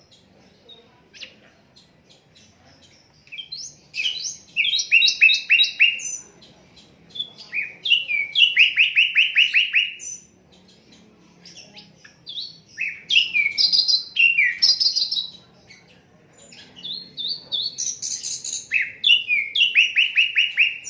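Sikatan londo flycatcher singing in four bouts of fast, repeated downward-sweeping whistled notes, with short pauses between the bouts.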